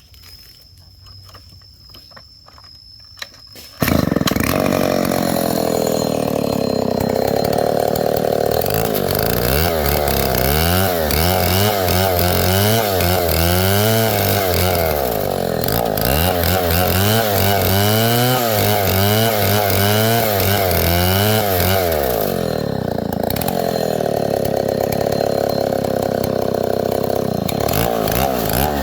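Stihl 070 two-stroke chainsaw running loud, starting abruptly about four seconds in after a few quiet clicks. Its pitch wavers rapidly up and down through the middle stretch, then settles steadier near the end.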